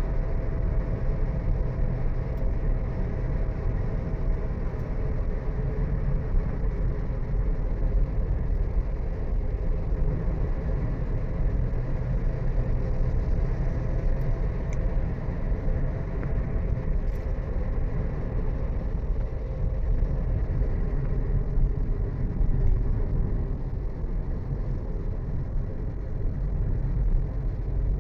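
Vehicle driving on a road: a steady low rumble of engine and road noise with a faint engine hum that holds fairly even.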